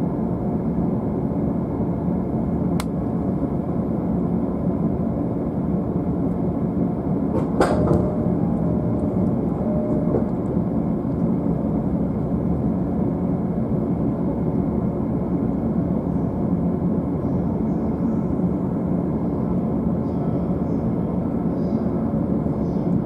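Steady low hum inside a stationary E531-series commuter train's upper deck, from its air conditioning and auxiliary equipment running while it waits to depart. There is a light click about three seconds in and a sharper knock about seven seconds in, followed by a short steady tone lasting a couple of seconds.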